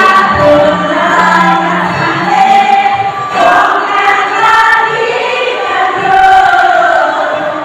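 A choir singing, many voices holding and moving between sustained notes together.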